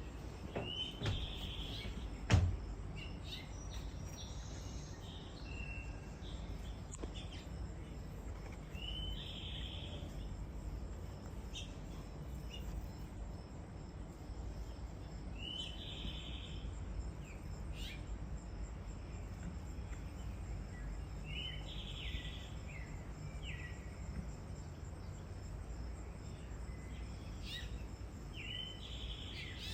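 A bird calling a short phrase over and over, about every six seconds, over a steady low background rumble. A sharp knock sounds about two seconds in.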